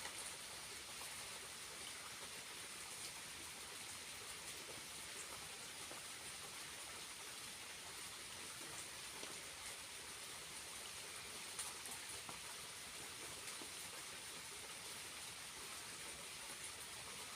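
Steady splashing of a small waterfall's falling water, with faint drips and patters over it.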